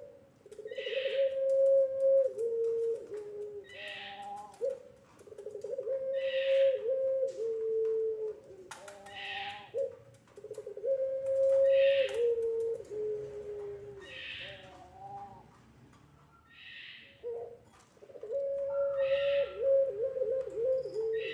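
Puter pelung (long-voiced ringneck dove) cooing: long, drawn-out coos that hold a note and then step down in pitch, repeated in phrases of a few seconds with short pauses between them. A short, higher-pitched call recurs about every two and a half seconds over the coos.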